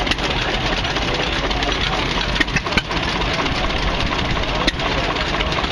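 Engines running steadily, with a few sharp clicks or knocks at irregular spacing.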